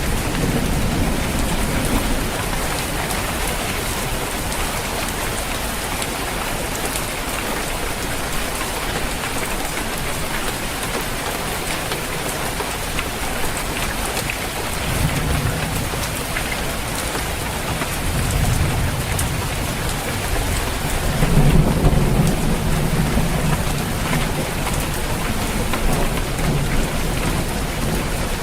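Steady heavy rain drumming on a roof, with low rolls of thunder rumbling in twice, about halfway through and again near the end.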